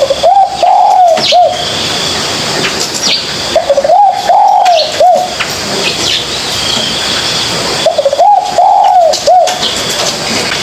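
Spotted dove cooing: three phrases of several rising-and-falling coo notes, about four seconds apart, with faint higher bird chirps in the background.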